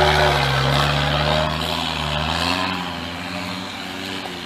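Land Rover Defender engine running at a steady pace as the 4x4 drives off along a forest track, fading as it moves away.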